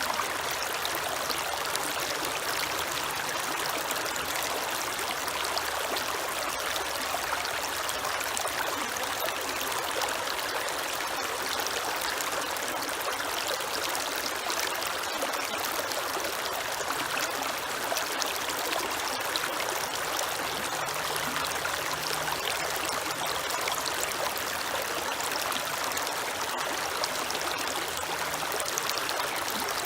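Creek water flowing and trickling steadily, a continuous rushing babble.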